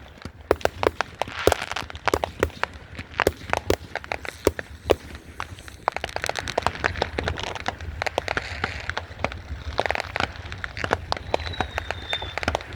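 Fireworks going off in a dense, irregular run of sharp cracks and pops, with a short, faint high whistle near the end.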